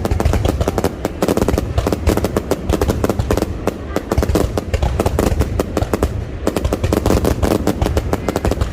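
Fireworks going off in a rapid, unbroken barrage, many sharp bangs and crackles a second.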